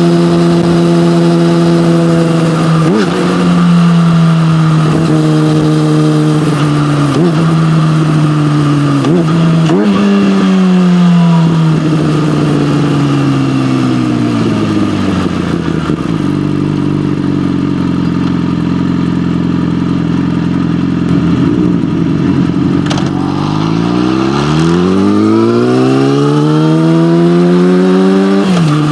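Yamaha motorcycle engine through an SC-Project aftermarket exhaust while riding: it holds speed with a few quick shifts, winds down to a low steady note as the bike slows, then revs up hard and drops pitch on a gear change near the end.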